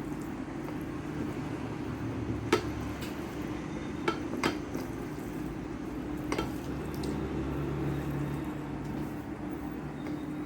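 Four sharp clinks of dishes during a meal, the first and loudest about two and a half seconds in, then two close together about four seconds in and one more about six seconds in, over a steady low hum.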